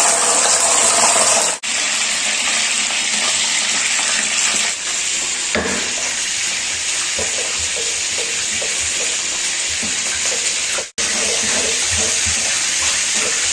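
Chilies, shallots and garlic sizzling in hot oil in a pan: a steady hiss broken by two brief cuts. Faint soft knocks come through it in the second half.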